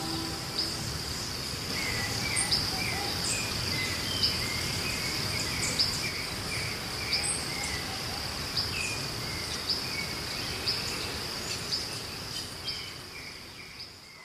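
Steady high-pitched insect drone, like crickets, with short bird chirps repeating every second or so. It fades out near the end.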